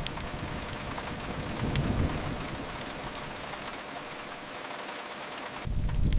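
Steady rain hiss, rain falling against a window, with a low rumble that swells about two seconds in, fades, and comes back suddenly near the end. A few faint crackles from a fireplace.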